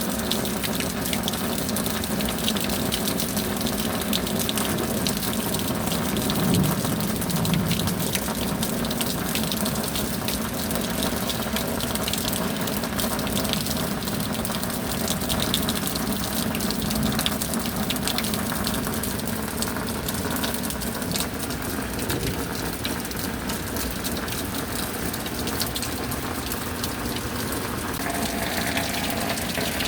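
Steady rain, a dense even rush of falling water with fine patter throughout.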